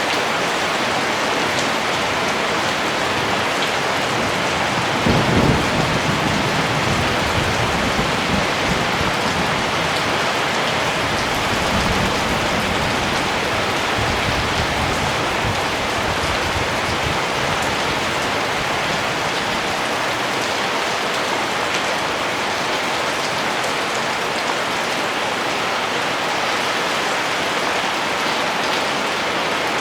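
Steady rain, with a low rumble of thunder coming in about five seconds in and fading out over about ten seconds.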